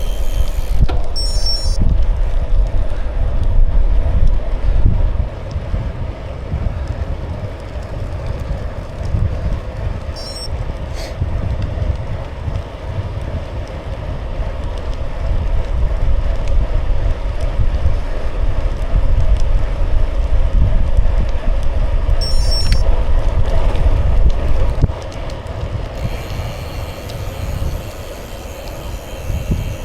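Wind buffeting the microphone of a moving bicycle, over a steady rolling noise from the tyres. The gusts ease off about 25 seconds in.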